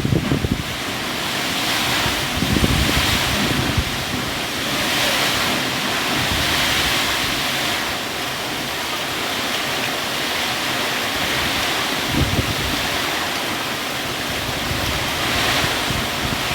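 Heavy rain and strong wind: a steady rushing hiss, with brief gusts rumbling on the microphone now and then.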